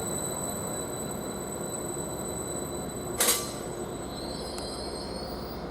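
Greater Anglia Class 755 bi-mode multiple unit standing at the platform, its steady running rumble slowly easing, with a brief sharp hiss or clunk about three seconds in.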